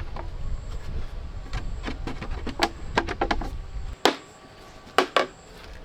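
Irregular wooden knocks and clatter from timber being worked or handled, over a low rumble that stops about four seconds in. A few sharp, loud knocks follow near the end.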